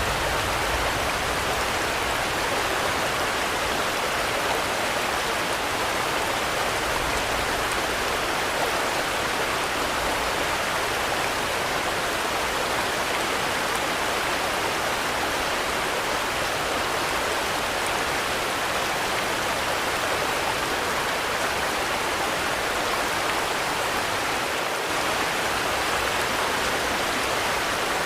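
Steady rainfall, an even, unbroken hiss with no pauses or changes.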